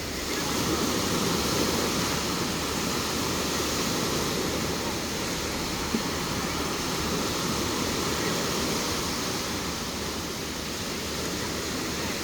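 Sea surf washing onto a sandy beach: a steady, continuous rush of breaking waves.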